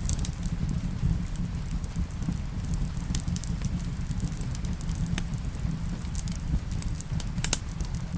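Wood fire burning in a fireplace: a steady low rumble with frequent sharp crackles and pops, a few louder snaps among them.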